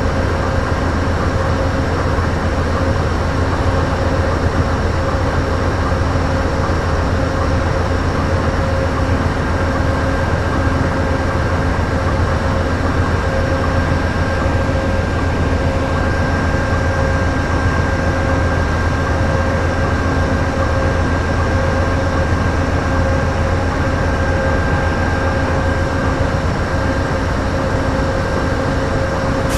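Diesel locomotives of a stopped Amtrak passenger train idling: a steady low drone with constant whining tones held over it.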